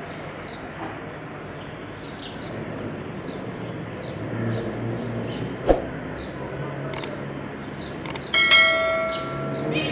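Small birds chirping in quick, repeated high notes, about three a second, with a few sharp clicks in between. Near the end comes a loud bell-like metallic ring that fades over about a second.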